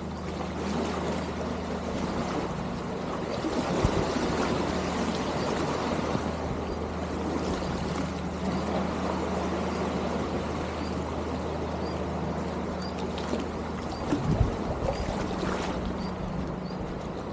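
Seaside ambience: water washing against the shore, under the steady low drone of a boat engine that fades briefly about three-quarters of the way through.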